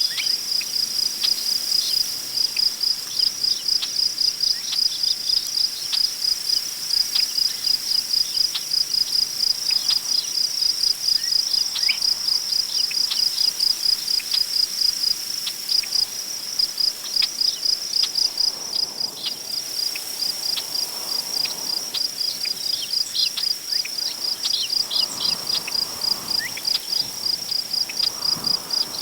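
Crickets chirping in a steady, even rhythm, with scattered faint bird chirps. Soft rustle of wind through tall grass rises near the middle and again toward the end.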